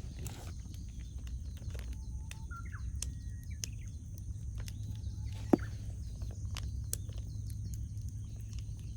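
Wood campfire crackling with scattered sharp pops, the loudest about five and a half seconds in, over a steady low rumble. A bird calls a few short whistled notes around two to three seconds in.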